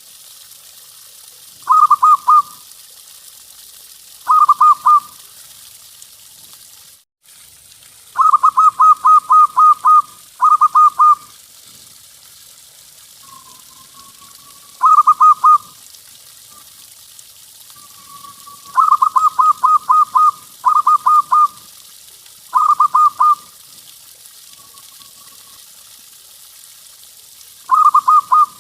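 Zebra dove (perkutut) singing: phrases of quick staccato cooing notes, repeated every few seconds with a few soft, drawn-out coos between them. The sound cuts out briefly about seven seconds in.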